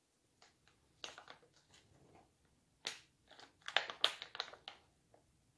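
Close-miked chewing and mouth sounds: a few soft smacks about a second in and near three seconds, then a quick cluster of wet smacks and clicks around four seconds.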